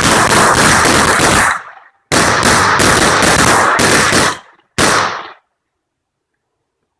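Old firecrackers going off on a grill in rapid volleys of bangs: a long crackling burst, a second one after a short pause, and a short third burst about five seconds in, then it stops.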